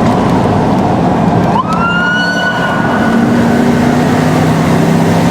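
A siren sweeps quickly up in pitch about a second and a half in and holds a steady tone for about two seconds before fading, over the steady noise of the moving car.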